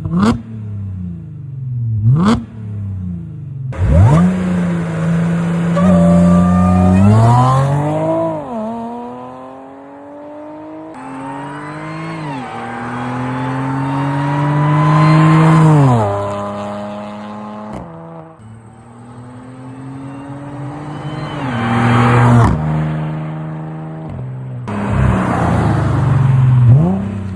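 Audi B8.5 S5's supercharged 3.0-litre V6 through resonated test pipes and a cat-back exhaust: two quick revs, then hard acceleration through the gears, the note climbing in each gear and dropping sharply at each upshift, about three times.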